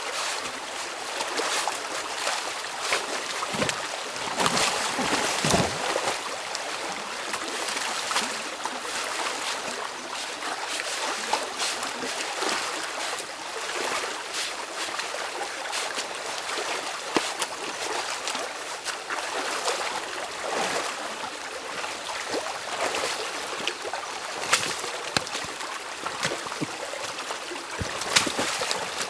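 Stream water running and splashing through a beaver dam being opened up by hand, a steady rush dotted with small sharp splashes, with a couple of heavier surges a few seconds in.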